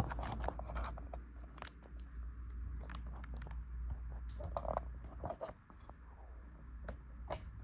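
Scattered light clicks and handling rustles, irregular and brief, over a low steady hum.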